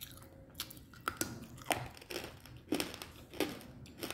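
Person chewing pieces of roasted edible clay (chang): a series of sharp, brittle crunches, about six, each half a second to a second apart.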